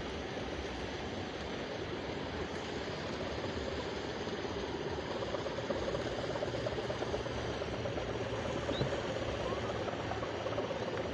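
Steady drone of a gapangan kite's hummer (sendaren) in the wind, growing a little stronger about halfway through.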